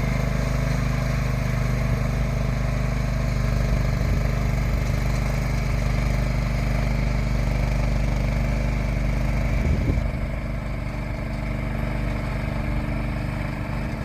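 A vehicle engine running steadily at an even speed, a little quieter from about ten seconds in.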